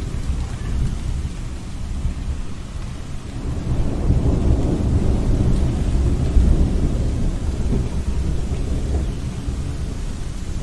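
Strong wind blowing with a deep rumble. A gust swells about four seconds in and eases off toward the end.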